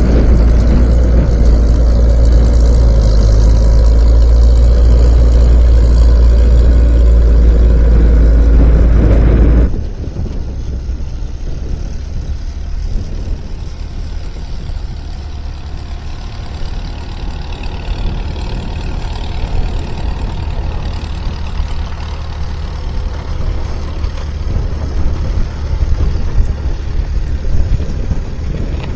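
Skid steer's diesel engine running loud and steady, then dropping suddenly to a quieter rumble about a third of the way in, which goes on to the end.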